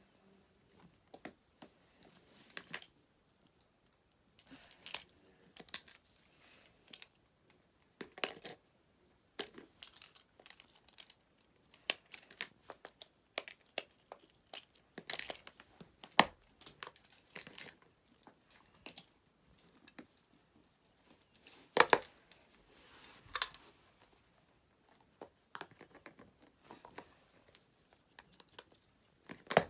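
Fidget toys being handled: irregular crinkling, crackling and clicking of plastic, a few sharp clicks at a time with short pauses between.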